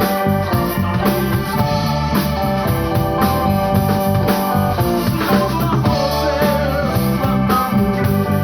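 Live rock band playing a song, with drum kit and electric guitar over bass and organ.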